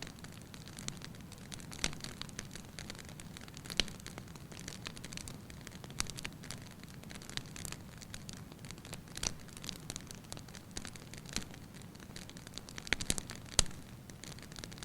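Wood fire burning in a fireplace: a steady low rush of flames with irregular sharp crackles and pops, a cluster of louder pops near the end.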